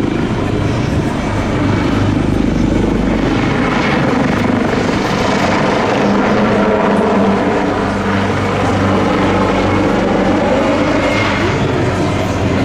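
Leonardo AW249 Fenice attack helicopter flying a display, its rotor and turbine noise loud and steady.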